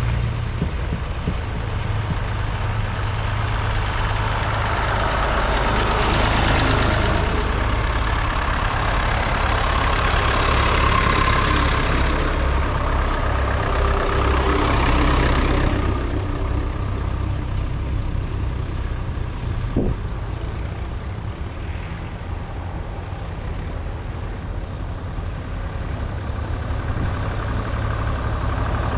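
Vintage tractor engines running as tractors drive in one after another, a steady low rumble that swells louder as tractors pass about six seconds in and again from about ten to sixteen seconds in.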